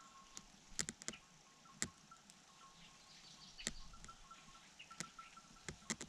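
Quiet outdoor bird ambience: a repeating series of short high notes on two close pitches, with faint chirps and scattered sharp clicks throughout.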